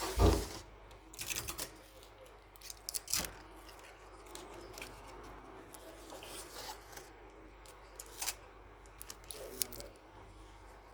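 A sharp knock just after the start, then scattered short crackles and clicks of paper being cut with scissors and handled.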